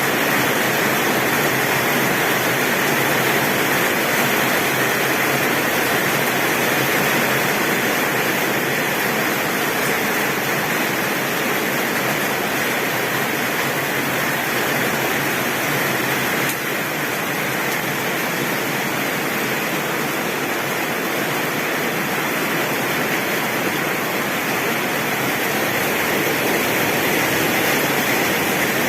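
Heavy rain falling steadily on a tin roof, an even, unbroken downpour with no thunder.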